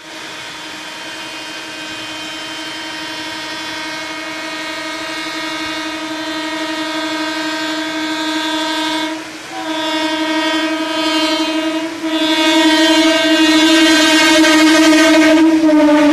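Horn of an EMU local train sounding long, steady blasts that grow louder as the train approaches, broken twice briefly, about nine and twelve seconds in. Near the end the horn's pitch drops slightly as the train passes.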